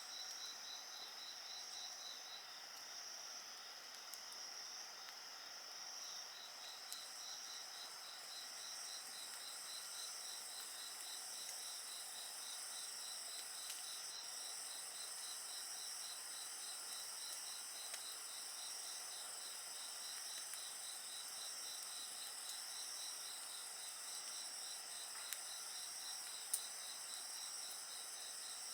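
A steady chorus of crickets and other insects, with high trills and one rapid, evenly pulsed chirp that breaks off for a moment about two seconds in. A wood fire gives a few faint, sharp crackles, the loudest pop near the end.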